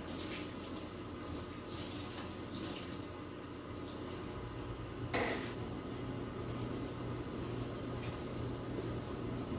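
Microwave oven running and heating a bowl of water with detergent and citric acid, with a steady low hum that gets louder about four seconds in. A single short knock comes about five seconds in.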